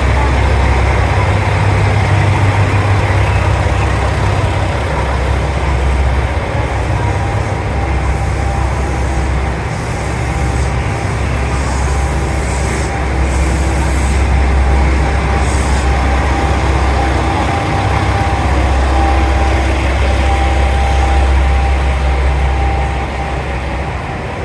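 JR Shikoku 2000 series diesel railcar running, a steady low engine and rail rumble that eases slightly now and then.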